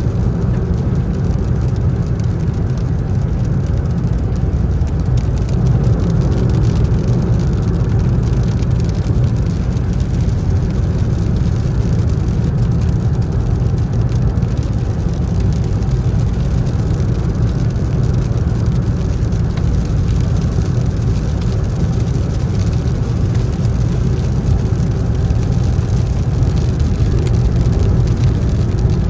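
Steady road, tyre and engine noise heard inside the cabin of a 2020 Toyota Yaris driving in a storm with fairly heavy rain, a deep rumble with rain pattering faintly over it.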